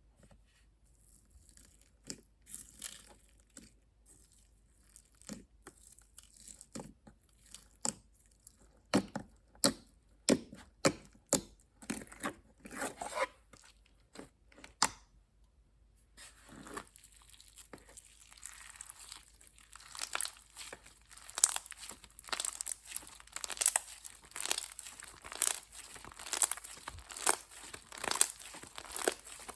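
Slime being handled: scattered sharp, sticky pops and clicks, then, from about halfway, a dense, continuous crackling and crinkling.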